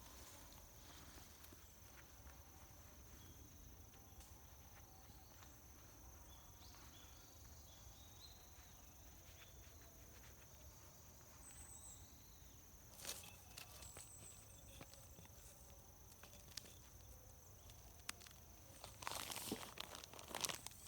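Quiet rural ambience dominated by a steady, high insect drone, typical of crickets. A few crunching rustles come about thirteen seconds in, and a louder run of rustling and crunching comes near the end.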